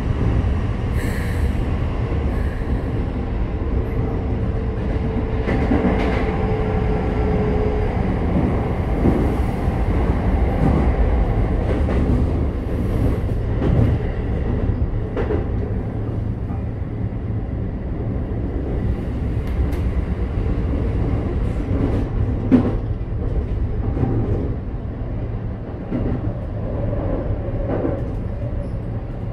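Keikyu 1000 series electric train with Mitsubishi IGBT-VVVF control, heard from inside the passenger car while it runs at speed: a steady rumble of wheels on rail with scattered clacks, the loudest about two-thirds of the way through. A faint whine falls slightly in pitch over the first several seconds.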